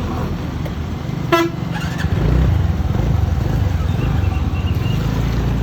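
A short, loud vehicle horn toot about a second in, with a fainter one just after, over the steady low rumble of a moving TVS Ntorq scooter.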